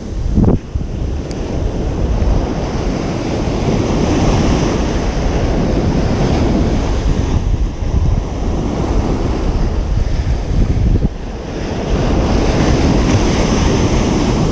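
Ocean surf breaking on a beach: a continuous loud wash of water that swells and eases as the waves come in, with a brief sharp tick about half a second in.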